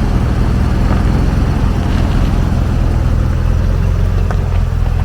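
Car engine running at a steady pace with road noise while driving, a low even drone.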